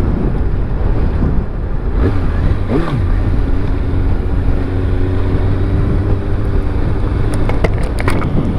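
Kawasaki ZX-6R inline-four motorcycle engine running low and steady, with wind rumbling on the microphone. A few sharp clicks come near the end.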